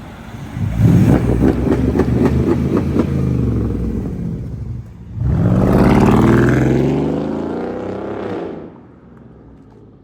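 Mercedes-Benz CLS 550 V8 engine revving loudly twice: a burst about a second in that slowly dies down, then a sharp rising rev around five seconds in that falls back to a quiet idle near the end.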